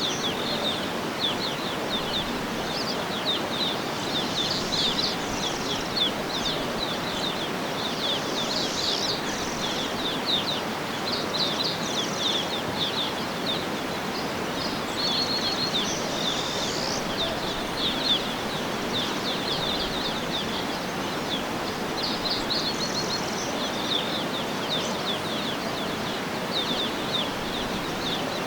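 Outdoor nature ambience: many birds chirping and trilling without a break over a steady, even background hiss.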